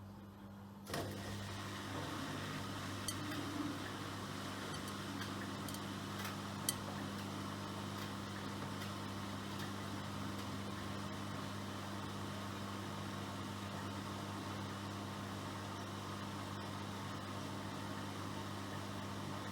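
Miele Professional PW6065 Plus washing machine starting up about a second in, then running steadily over a low hum, with a couple of light clicks.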